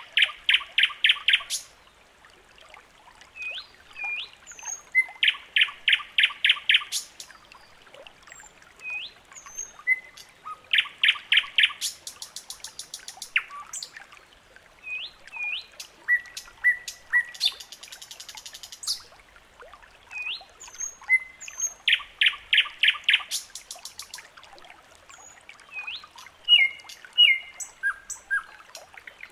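Birdsong: several birds chirping and whistling, with rapid runs of repeated notes every few seconds and a high buzzy trill now and then.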